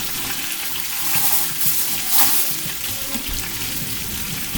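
Breaded chicken breasts frying in hot oil in a pan: a steady sizzle with crackling, swelling louder about one to two seconds in.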